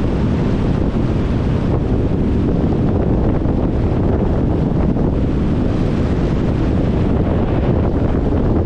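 Steady low rumble of a vehicle driving: road and wind noise picked up by a recording microphone, with no distinct events.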